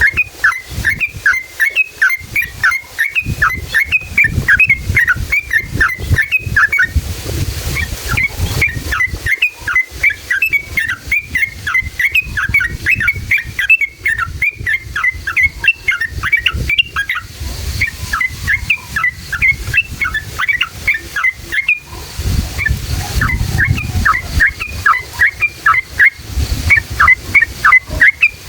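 Yellow-vented bulbul (trucukan) singing long runs of rapid, sharp chirps, about five a second, each run lasting several seconds with short pauses between, over a low rumble.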